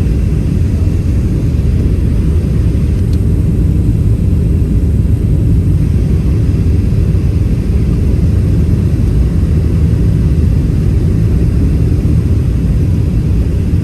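Steady low rumble inside the cabin of a Boeing 737-700 taxiing after landing, from its CFM56 jet engines at low thrust and the airframe rolling along.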